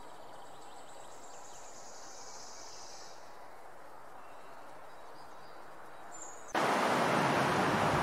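Quiet outdoor nature ambience with a faint high chirring for the first few seconds, then a sudden switch, a little past six seconds in, to a much louder steady rushing noise.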